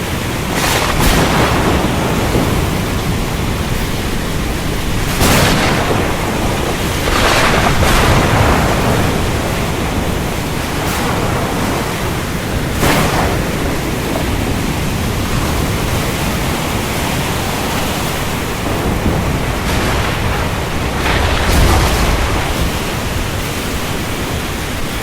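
Steady heavy rain with thunder: several sudden sharp cracks through the rain, and a deeper rumble a little after the middle.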